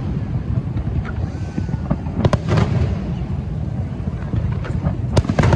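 Fireworks going off: a few sharp bangs with echoing tails, two about two seconds in and two more near the end, over a steady low rumble.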